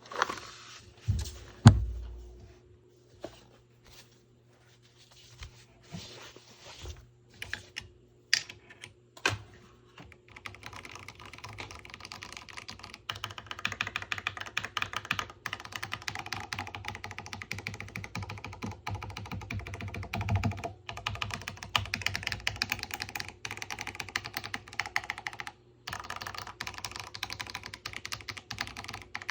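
Typing on an OLKB Preonic ortholinear mechanical keyboard with spray-lubed Gateron Pro Purple tactile switches. About ten seconds of scattered single keystrokes are followed by fast, continuous typing, with a brief pause near the end.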